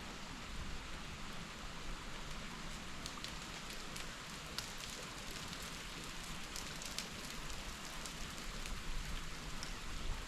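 Meltwater dripping and small bits of ice pattering down from a melting frozen waterfall over a steady hiss. The ticks come thicker from a few seconds in.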